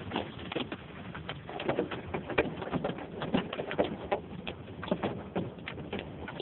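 Hailstones pelting down, a dense, irregular clatter of sharp hits over a steady noisy rush.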